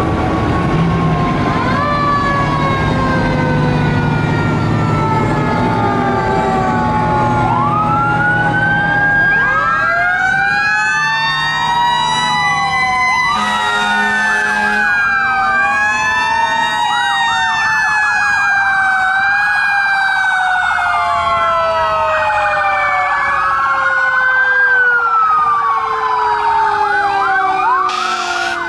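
Several fire-truck sirens sounding at once. One long tone winds slowly down in pitch, like a mechanical siren coasting, while others rise and fall in quick repeated wails. A low engine drone runs underneath for the first several seconds.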